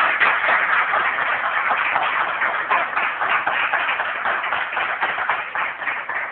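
A group of people applauding steadily: many hands clapping at once in a dense, even patter.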